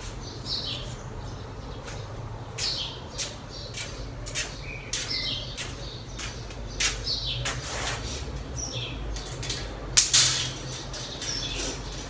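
Birds chirping in short, repeated falling calls, over a low steady hum with scattered sharp clicks. A brief louder rush of noise comes about ten seconds in.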